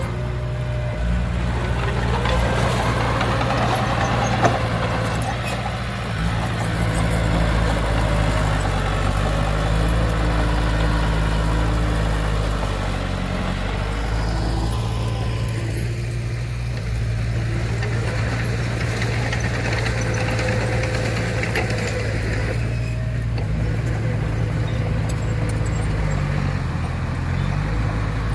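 Heavy diesel earthmoving machinery running, its engine note shifting as revs change, with swelling mechanical noise and one sharp knock about four and a half seconds in.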